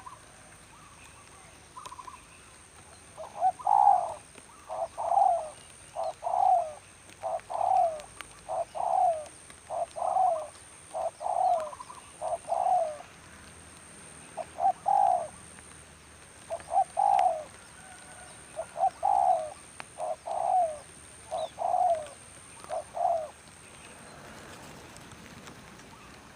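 Spotted dove cooing: a long run of short repeated coos, each dipping slightly in pitch, in phrases of a few notes, stopping about three seconds before the end.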